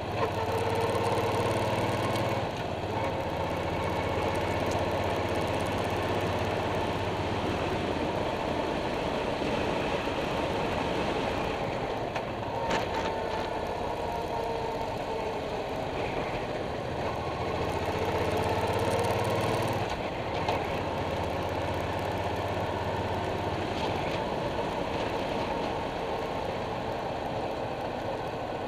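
Suzuki Boulevard C50's 805 cc V-twin engine running steadily under way at low neighbourhood speed, heard up close from a bumper-mounted camera, with wind and road noise over it. The engine note eases off briefly about two and a half seconds in and again about twenty seconds in.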